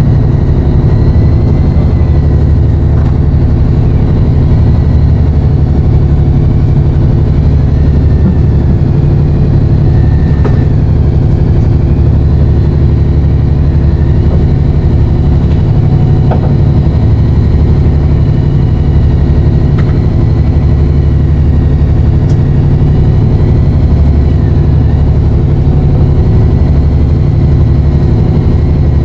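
A fishing boat's engine running steadily at an even, low pitch, close by and loud throughout.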